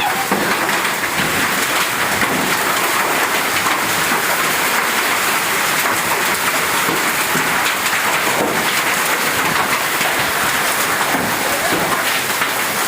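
Heavy storm downpour: rain beating down hard and steadily, a dense even hiss of countless drops.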